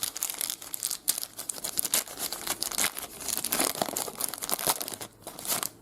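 Trading card pack wrapper being torn open and crinkled, with dense irregular crackling throughout.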